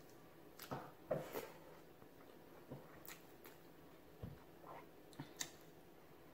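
Quiet mouth sounds of a person chewing food: a scattering of short, soft wet smacks and clicks, the loudest about a second in.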